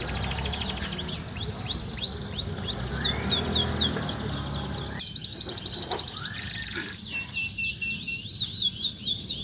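Domestic canary singing: fast trills of repeated sweeping notes, with the phrase changing abruptly about five seconds in.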